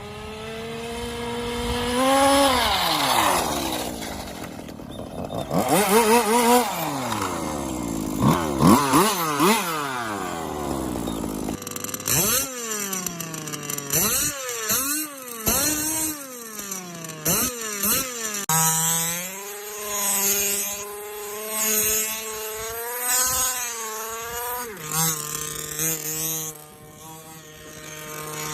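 Small two-stroke engine of a homemade ride-on toy car being revved up and down again and again, its pitch rising and falling with each blip of the throttle, with a sound like a two-stroke Kawasaki Ninja motorcycle. The sound changes abruptly about twelve seconds in and again near eighteen seconds, as the runs are joined one after another.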